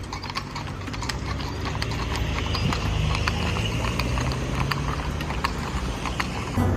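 Horse hooves clopping on pavement: many sharp, irregular knocks over a steady low traffic rumble.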